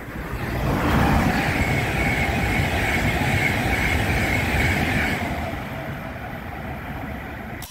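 A train running past on the tracks: wheel and track rumble that builds in the first second, with a high whine that drops slowly in pitch, then fades away over the last few seconds.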